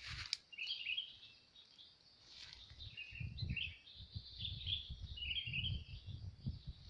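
Small birds chirping and twittering in short repeated bursts, with irregular low thumps underneath from about two and a half seconds in.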